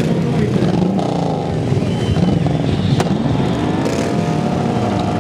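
Chopper motorcycle engines running, their pitch rising and falling as they are revved.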